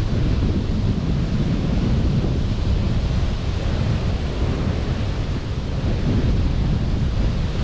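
Sea surf washing onto a beach, a steady wash heaviest in the low end, with wind buffeting the microphone.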